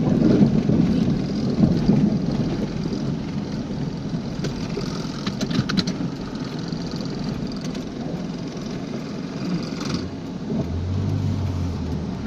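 Car driving along a road: steady engine and tyre noise, with a low hum setting in about ten seconds in.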